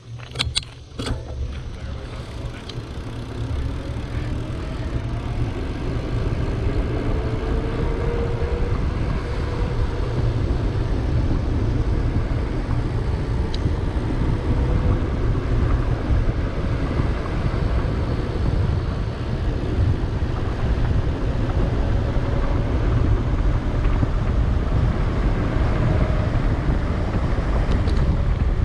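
Wind buffeting the microphone and tyre noise from a bicycle rolling at speed on a paved road, building over the first few seconds and then steady. There are a few sharp clicks in the first second or two and a faint wavering whine.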